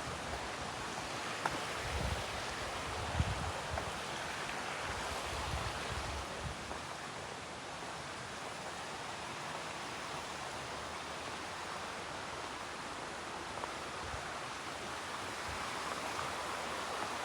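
Steady rushing of a cascading creek, with a few low thumps in the first several seconds.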